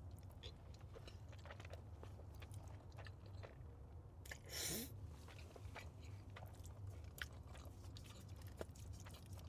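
Close-miked chewing of a mouthful of spaghetti: soft, wet mouth clicks scattered throughout, with one longer, louder rush of air about four and a half seconds in, over a low steady hum.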